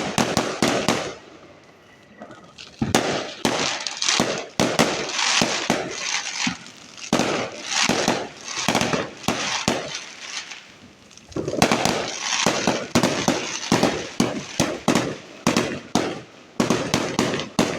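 Fireworks going off in rapid clusters of sharp bangs and crackles, with two short lulls, about two seconds in and about ten seconds in.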